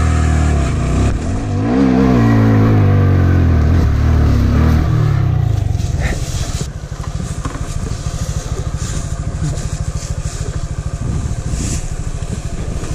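Honda Grom's 125 cc single-cylinder four-stroke engine revving hard, its pitch climbing and falling through the gears on a dirt hill climb. After about five seconds it drops back to a lower, uneven putter.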